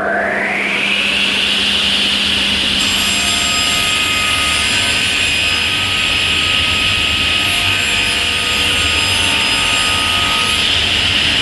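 An electric power tool's motor switched on: its whine rises quickly in the first second, then it runs at a steady high pitch with no change in load.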